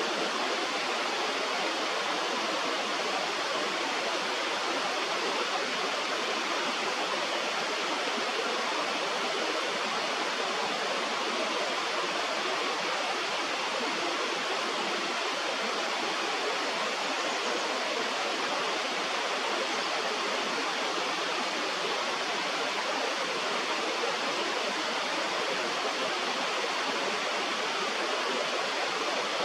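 Steady rushing of a river or stream, an even noise with no change throughout.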